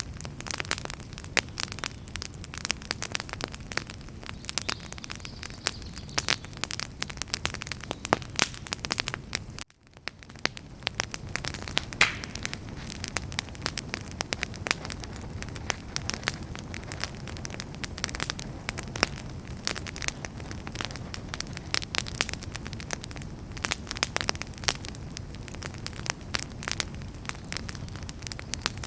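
Wood fire burning, with dense, irregular crackling and popping of firewood over a low, steady rumble of flames. About ten seconds in, the sound cuts out for a moment, then comes back.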